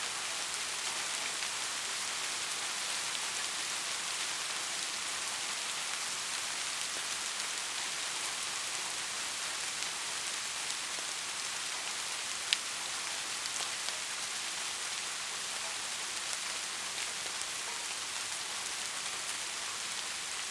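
Steady rain falling, an even hiss with one sharp tick of a drop about twelve seconds in.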